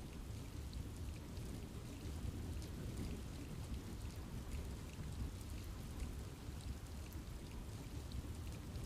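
Steady rain falling in a forest, a low rumbling wash with many small drop ticks scattered through it.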